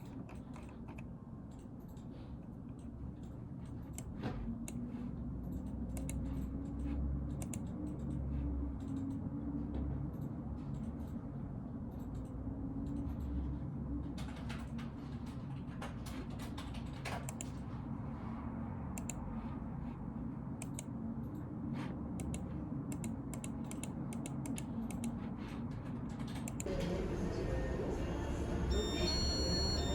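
Typing on a computer keyboard: irregular key clicks over a low steady background. Music comes in near the end.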